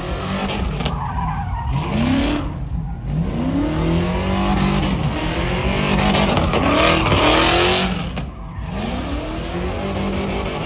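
Truck engine revved again and again, each rev a quick rising sweep in pitch, over the steady running of an engine. A rush of tyre-squeal noise builds to its loudest about seven seconds in, then cuts away.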